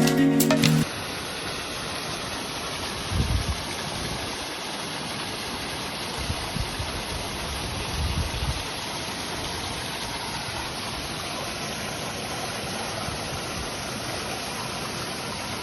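Stream water rushing steadily, with a few soft low thumps.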